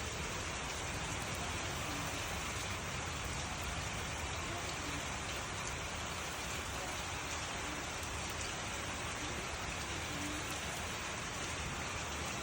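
Steady rain falling, an even hiss with faint scattered drips.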